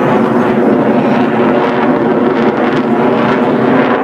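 Jet aircraft flying a display pass, its engine noise loud and steady throughout, deafening at close range.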